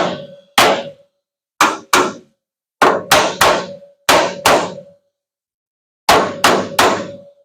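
Body hammer striking the sheet-metal bed panel of a Ford F-350 Super Duty pickup, about eleven sharp blows in quick groups of two or three, each with a short metallic ring, knocking a high spot in while working out a dent.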